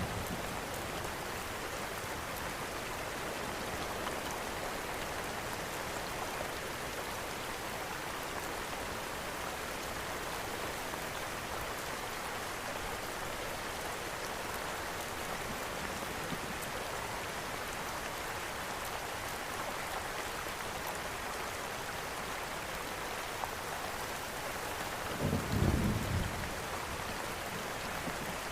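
Steady rain falling, with faint crackles from a wood fire in a fireplace. Near the end comes a short low rumble of thunder.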